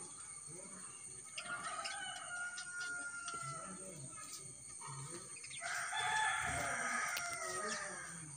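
Birds calling in drawn-out calls, the loudest beginning a little past the middle and lasting about two seconds.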